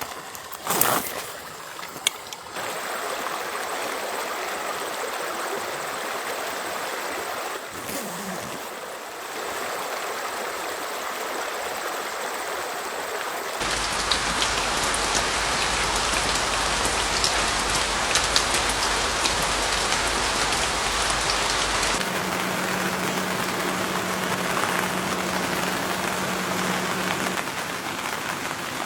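Steady rain falling, in several stretches joined by abrupt cuts. It is heaviest and loudest in the middle stretch, with a low steady tone in the later part. Two sharp knocks sound in the first couple of seconds.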